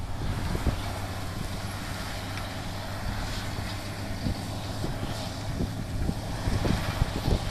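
1996 John Deere 8770 tractor's diesel engine running steadily with a low, even hum.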